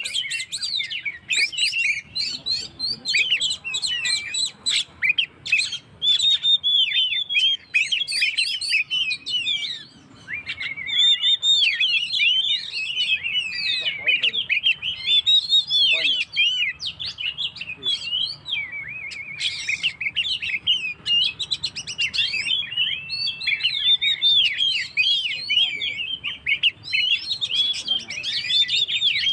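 Oriental magpie-robin (kacer) singing vigorously in a fast, continuous stream of varied whistles and chattering notes, with a short break about ten seconds in.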